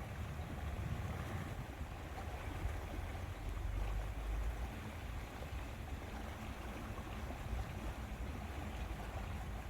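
Lakeside ambience: a steady low rumble of wind on the microphone over a soft wash of water.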